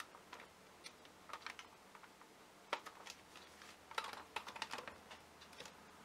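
Scattered light clicks and taps of hard plastic as a Dyson V6 cordless handheld vacuum and its battery pack are handled and gripped. The sharpest taps come about two and a half seconds and four seconds in.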